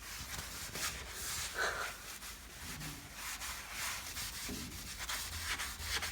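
Sponge with cream cleaner scrubbing fireplace glass: a run of uneven rubbing strokes.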